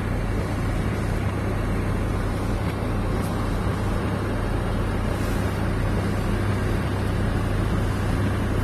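Small kitchen cooking extractor fan running steadily: a constant rush of air over a low, even hum.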